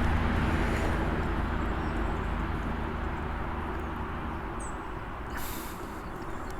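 Low, steady engine rumble of a passing vehicle, slowly fading away.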